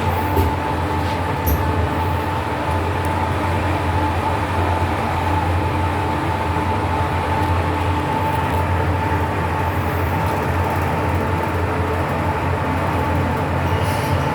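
Fujitec passenger lift car travelling in its shaft: a steady low rumble with a steady high-pitched whine over it, part of the weird, strange noises this lift makes.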